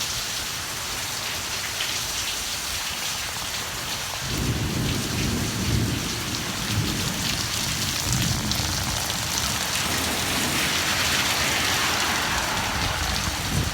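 Heavy rain falling steadily in a thunderstorm. About four seconds in, a low rumble of thunder rolls in under the rain for several seconds and then eases.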